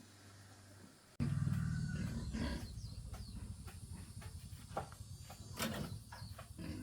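A small engine running with a rapid, low pulsing rumble, starting abruptly about a second in, with scattered clicks and knocks over it.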